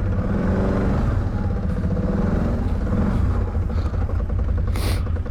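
ATV's V-twin engine idling and running at low speed, a steady pulsing run with slight rises and falls in pitch. A brief hiss comes about five seconds in.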